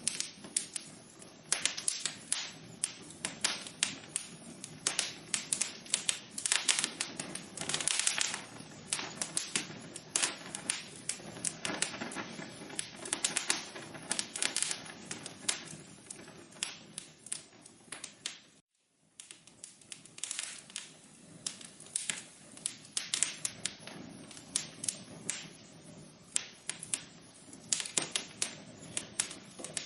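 Wood fire crackling in a fireplace: a steady stream of irregular pops and snaps over a low hiss of burning. The sound cuts out for an instant about two-thirds of the way through.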